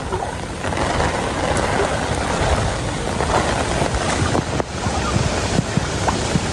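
Floodwater rushing, a steady noisy wash with small splashes and ticks scattered through it.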